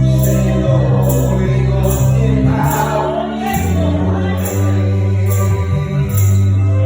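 Gospel praise music played live by a band, with sustained bass notes, a steady beat and voices singing.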